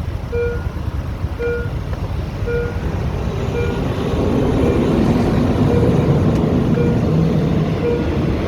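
Warning signal beeping about once a second while a train approaches, its rumble building and growing louder from about halfway through.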